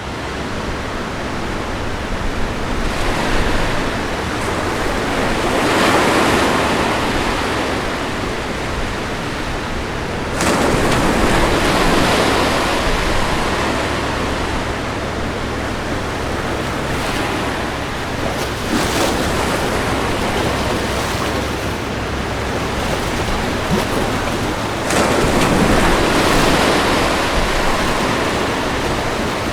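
Ocean surf washing ashore: a continuous hiss of water that swells into several breaking waves, one rising suddenly about ten seconds in and the loudest near the end.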